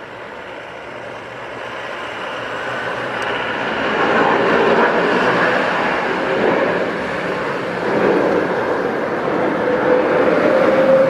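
Jet airliner engines running loudly as the aircraft passes close by, swelling over the first few seconds, with a steady tone that rises slightly near the end.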